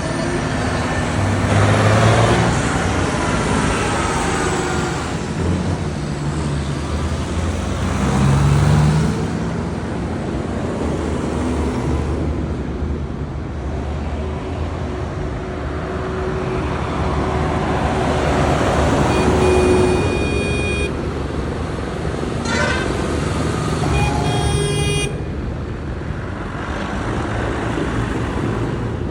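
Parade trucks' engines running as they drive past, with horn blasts sounding twice in the second half.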